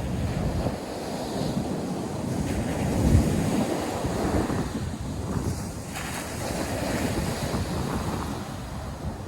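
North Sea surf washing onto a sandy beach, with wind buffeting the microphone in gusts; the loudest surge comes about three seconds in.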